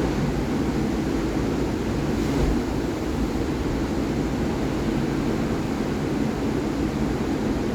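Sea waves breaking on the shore: a steady rushing surf noise.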